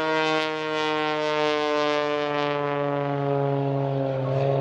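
Aircraft flying past at an airshow: a steady engine drone with many overtones, falling slowly in pitch as it passes.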